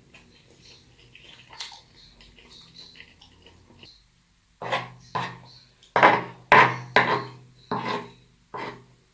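Close-miked eating sounds from a person eating a large burrito: soft chewing and mouth clicks, then, after a brief drop to silence, about eight loud, sharp smacks and crunches in quick succession.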